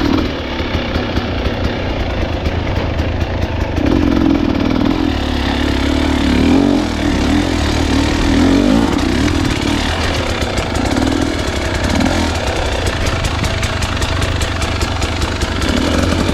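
Enduro dirt bike engine running under changing throttle while riding, its note rising and falling.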